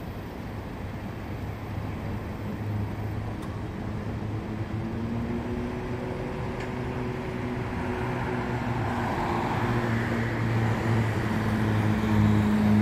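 A car engine idling with a steady low hum, with street traffic noise building and growing louder over the last few seconds.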